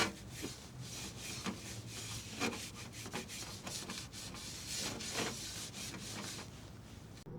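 Wood campfire crackling: a steady hiss with irregular sharp pops, the loudest one at the start, stopping abruptly near the end.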